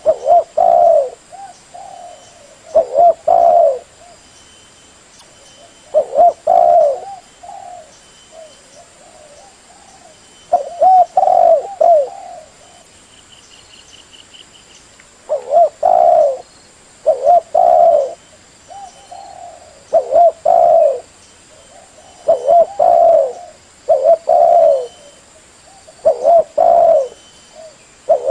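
Spotted dove (tekukur) cooing: low, loud coo phrases of two or three notes, repeated every few seconds.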